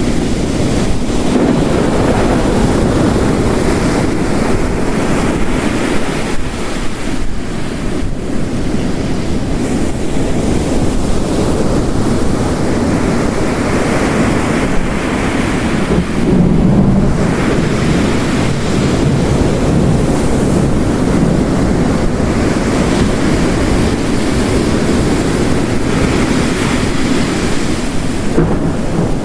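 Ocean surf crashing and washing in repeated swells, layered over steady heavy rain, as one continuous rushing noise that rises and falls every few seconds. A louder surge comes about halfway through.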